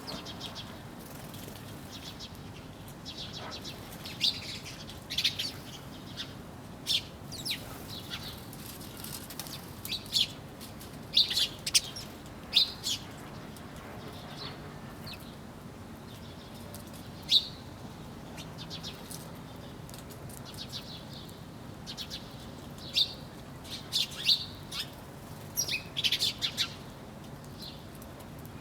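Songbirds chirping: short, sharp high calls come scattered and irregular, at times several in quick succession, over a faint steady background hiss.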